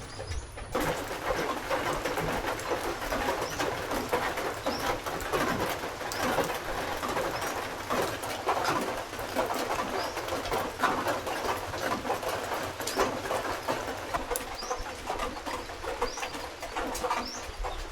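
Birds calling, among them a dove cooing, with short high chirps here and there, over a dense, steady crackling noise that starts abruptly just under a second in.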